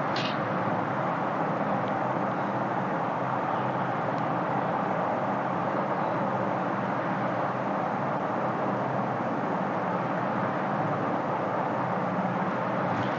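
Steady, even background noise with no distinct events, apart from a faint click at the very start.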